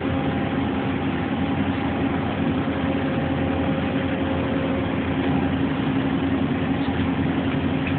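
Steady machine-shop hum: running machinery with a constant tone over a broad noise that does not change.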